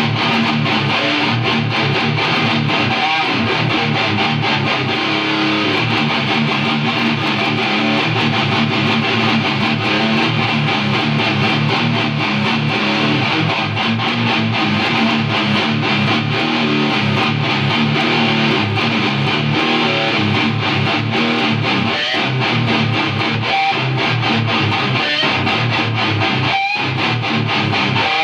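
Electric guitar played through the ART DST 8080's 'Extreme' preamp channel with no pedals or EQ, giving heavy death-metal-style distortion as it plays low riffs, with a few very short stops in the last several seconds.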